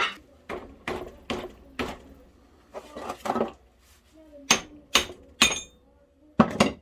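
Irregular metal knocks and clinks, about a dozen, some ringing briefly, as steel parts of a winch roller assembly are handled and tapped back together.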